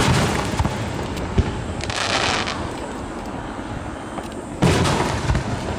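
Aerial firework shells bursting overhead: a sharp boom at the very start and another about four and a half seconds in, each trailing off in a low rolling echo.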